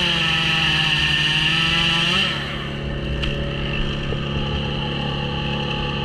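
Gas chainsaw running at high revs, then dropping back to a steady idle a little over two seconds in.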